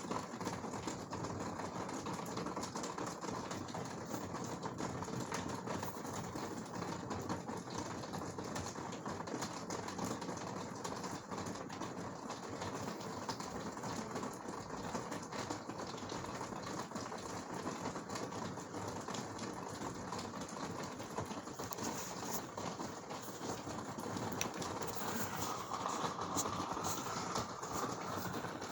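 Heavy rain falling steadily in a severe thunderstorm, a dense clatter of drops striking hard surfaces.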